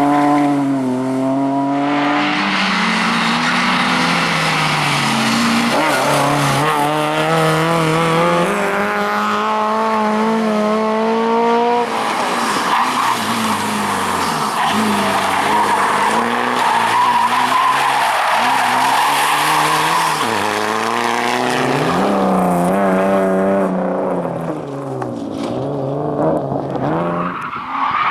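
Rally car engine driven hard, its pitch climbing in steps through the gears with drops at each shift. In the middle there is a long stretch of tyre squeal as the car slides, and the engine revs up and down again near the end.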